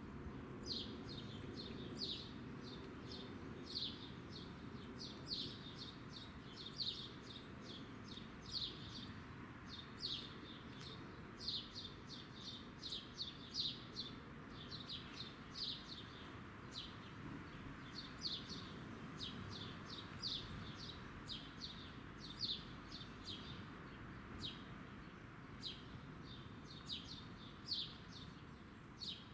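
Bird chirping again and again with short, high, slightly falling notes, one or two about every second, over a faint steady low background noise.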